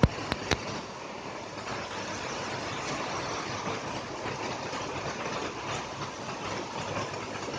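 Steady rain falling, an even hiss, with a few sharp taps in the first half second.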